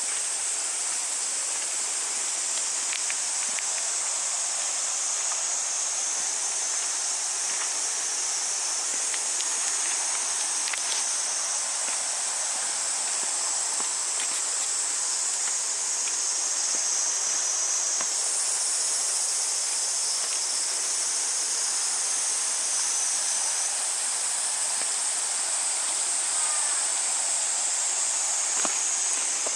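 A chorus of cicadas buzzing steadily in a high, unbroken drone, over a fainter hiss of ambient outdoor noise.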